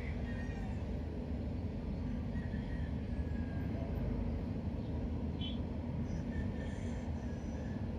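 Steady low ambient rumble, like distant traffic, with a few faint, short high chirps over it.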